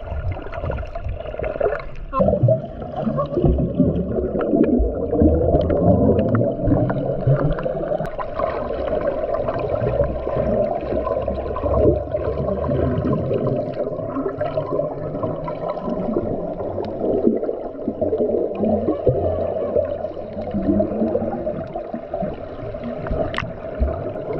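Underwater sound picked up by a submerged camera: a steady muffled rush of water with bubbling and gurgling.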